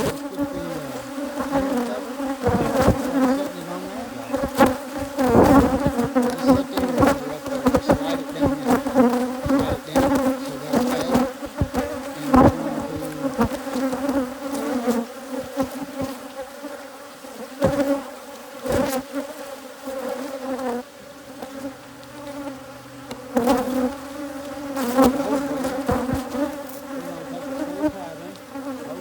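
Dense buzzing of a hybrid Africanized honeybee colony around an open hive: a steady, pitched drone with scattered short knocks and clicks over it.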